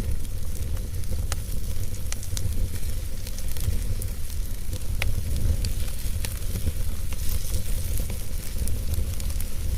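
Wood fire burning in a fireplace: irregular sharp crackles and pops, the loudest about five seconds in, over a steady low rumble and soft hiss.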